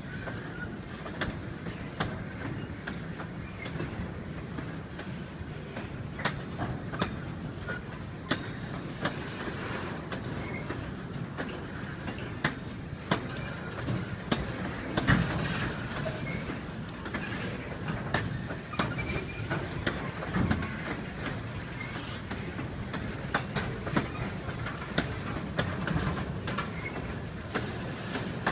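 Railway train running on the track: a steady rumble of wheels on rail with irregular clicks from the rail joints, a few short faint wheel squeaks, and a louder swell about halfway through.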